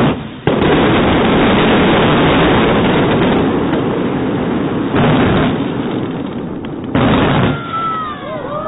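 Daylight fireworks fired in a dense barrage: a sharp blast at the start, then continuous rapid crackling and banging, with further loud surges about five and seven seconds in.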